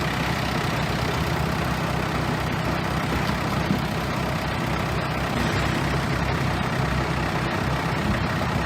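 Heavy diesel engine of earthmoving equipment, such as a bulldozer, running steadily at an even pitch.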